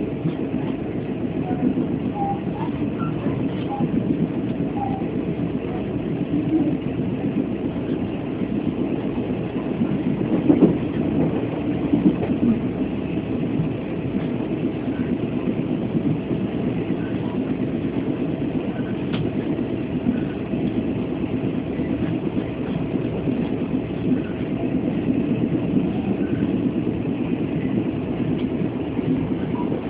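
Steady rumble of a Chu-Kuang Express passenger train running on the rails, heard inside the carriage, with a faint steady hum.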